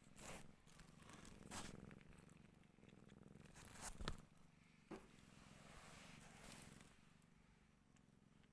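Cat purring faintly and steadily, with a few brief rustling scuffs over it; the loudest scuff comes about four seconds in.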